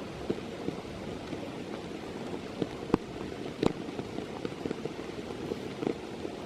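Steady rain with heavy drops hitting close to the microphone as sharp pats, the loudest about three seconds in and again just after.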